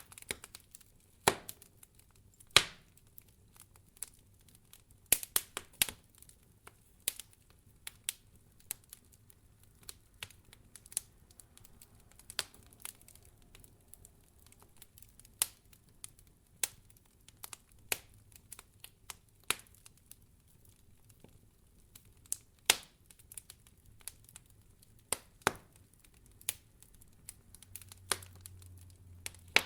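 Wood fire in a fireplace crackling: irregular sharp pops and snaps, sometimes several a second and sometimes a second or two apart, over a faint low hum.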